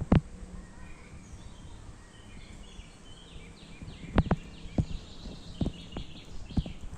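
Small birds chirping in short scattered calls over outdoor background noise, with several sharp knocks: one near the start and a handful more from about four seconds in.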